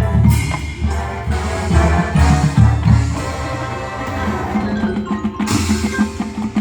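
High school marching band playing its field show, with drum hits and mallet percussion sounding among the pitched music.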